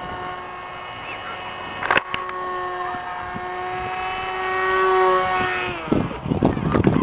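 Radio-controlled model airplane's motor and propeller holding a steady, pitched hum that grows louder around five seconds in, then falls in pitch and fades just before six seconds as it slows. A sharp knock about two seconds in, and rumbling noise near the end.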